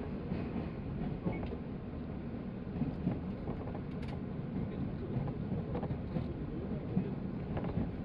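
Running noise inside a moving JR 185 series electric train: a steady low rumble with a few faint clicks.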